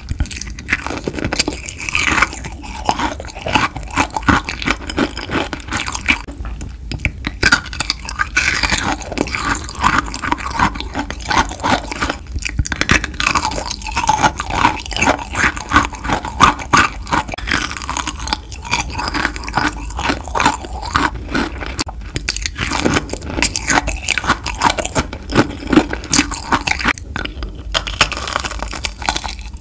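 Crunching and chewing of kohakutou (Japanese crystal agar candy) close to the microphone: crisp crackling bites into the sugar-crusted pieces, then moist chewing, repeated bite after bite with a few brief lulls.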